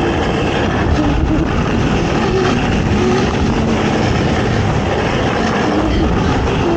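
ATV engine running hard, its pitch rising and falling as the throttle is worked, over heavy rumbling noise.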